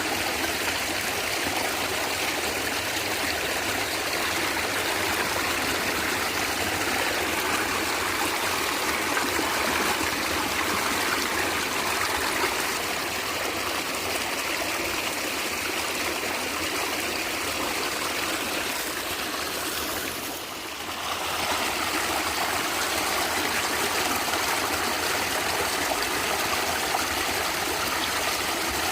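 Natural stream water gurgling and trickling in a steady rush. About two-thirds of the way through, the level briefly dips for under a second.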